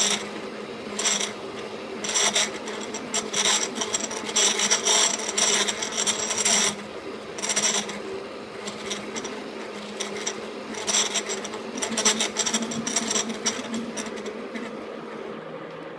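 E1N lathe running with a steady hum while a cutting tool scrapes metal from the workpiece in repeated bursts lasting from a fraction of a second to a couple of seconds. The cutting stops near the end, leaving only the lathe's hum.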